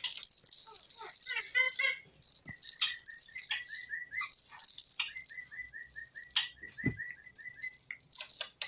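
Caged pet birds chirping and chattering, high and busy, with a long run of quick, evenly repeated notes through the middle and a few knocks.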